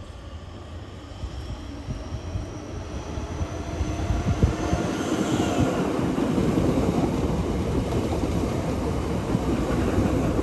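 Southeastern electric train coming into the station: its rumble grows steadily louder over the first five seconds or so, then runs on loud and steady as the carriages pass close by.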